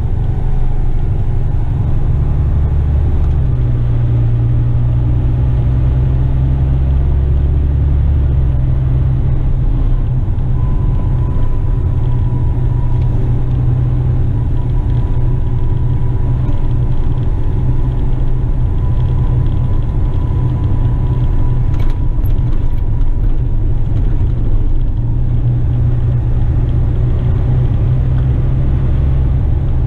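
Western Star tipper truck's diesel engine and road noise heard from inside the cab while driving: a steady, loud low drone whose pitch shifts a little a couple of times.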